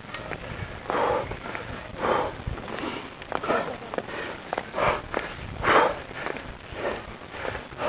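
A cyclist breathing hard while climbing a steep hill, with heavy breaths about once a second.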